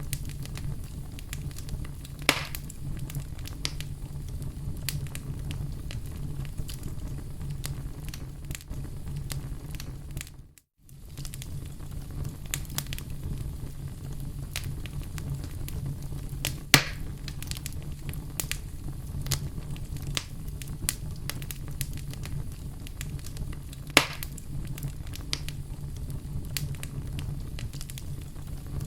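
Small wood campfire crackling steadily over a low rumble, with three sharper, louder pops spread through. The sound cuts out completely for a moment a little past the middle.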